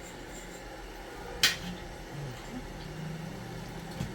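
A single sharp clink of cookware about a second and a half in, over a low steady hum.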